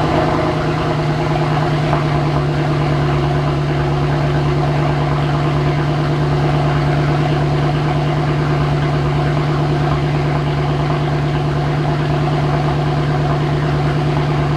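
Mercedes-AMG 6.2-litre V8 idling steadily with an even, unchanging engine note.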